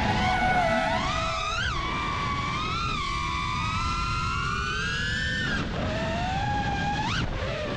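FPV freestyle quadcopter's brushless motors and props whining, the pitch rising and falling with the throttle: several quick climbs, a long rise that cuts back sharply about two-thirds of the way in, and a fast climb near the end.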